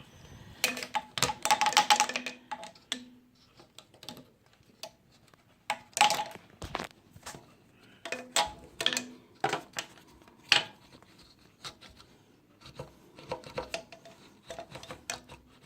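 Irregular clicks, clinks and rattles of a drain snake being worked down a sink drain clogged with hair, some clinks ringing briefly.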